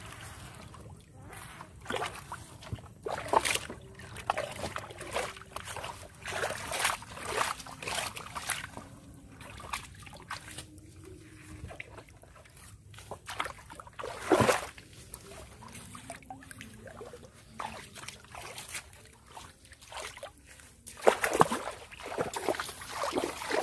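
Irregular splashing and sloshing in shallow water, with the loudest splash about two-thirds of the way through and a flurry of splashes near the end.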